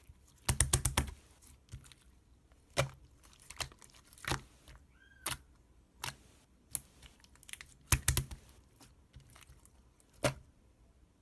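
Clear slime with cube toppings being pressed and squished, giving scattered sharp clicks and pops, with quick runs of crackling about half a second in and again around eight seconds in.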